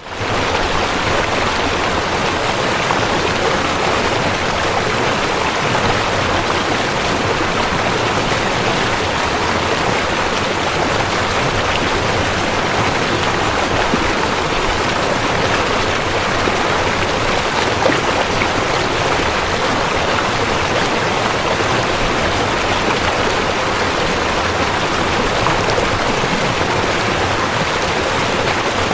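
Rushing river: a steady, unbroken rush of flowing water.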